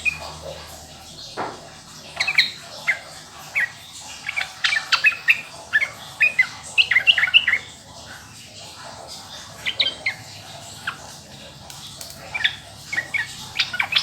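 Yellow-vented bulbul (trucukan) singing in bursts of quick, bubbling notes, busiest in the middle and picking up again near the end.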